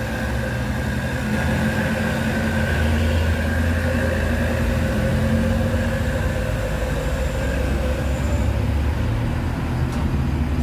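Heavy truck diesel engine running steadily under load, a low drone with a steady whine above it; it grows a little louder about a second in.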